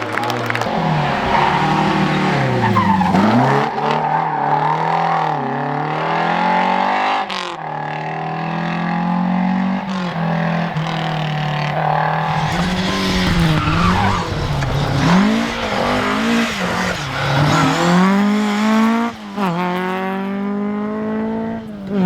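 Rally car engine revved hard, its pitch rising and dipping again and again as the driver accelerates, lifts off and shifts gear. Near the end it climbs in quick steps through the gears, with tyre skidding under it.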